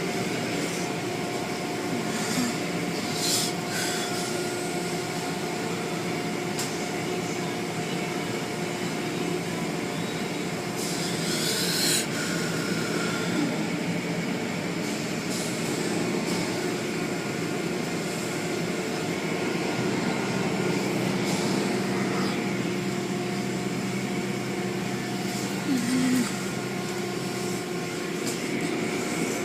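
Automated car wash machinery running: a steady motor hum with a few short swishes of spray or brushes.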